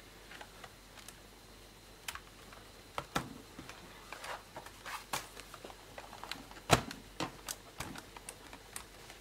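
Irregular light clicks and knocks of a laptop's plastic case being handled and turned over on a workbench, with one sharper knock about two-thirds of the way through.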